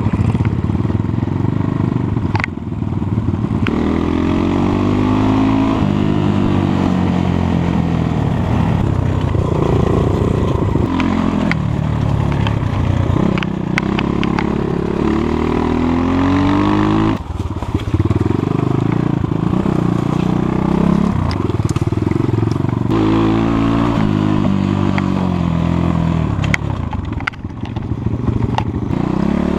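Enduro motorcycle engine being ridden, revving up and falling back again and again, with occasional sharp clicks over it.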